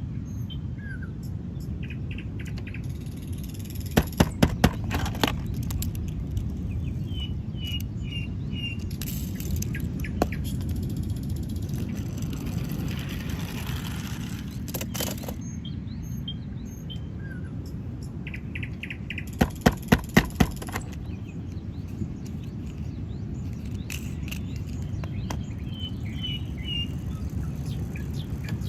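Outdoor ambience: a steady low rumble with scattered short bird chirps. Twice, about four seconds in and again near twenty seconds, a quick run of four sharp clicks stands out above it.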